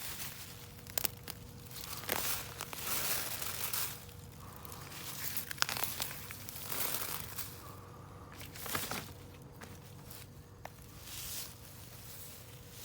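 Soil and potato plants handled during a potato harvest: irregular bouts of crunching, rustling and tearing, with a few sharp clicks about a second in and midway.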